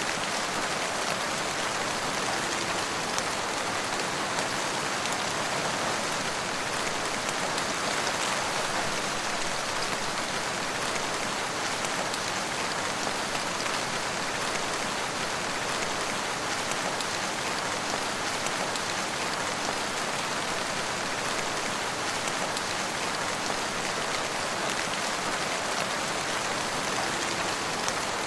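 Steady rain falling, a constant even hiss of many drops with no thunder or changes in strength.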